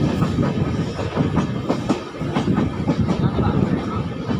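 Passenger train running along the track: a steady rumble with wheels clicking over rail joints.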